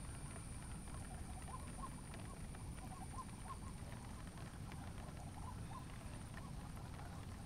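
Short animal calls in quick clusters, several a second, over a steady low rumble and a thin, steady high-pitched hum.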